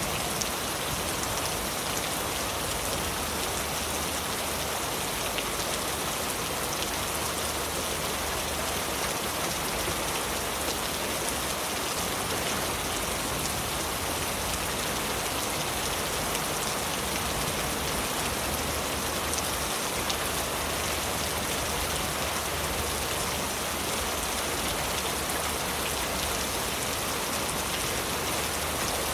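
Heavy rain falling steadily on leaves, an even hiss with countless fine drop patters.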